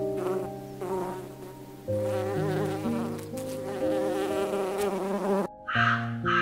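A flying insect buzzing, its pitch wavering, over held music notes. The buzzing cuts off about five and a half seconds in, and a crow starts cawing near the end.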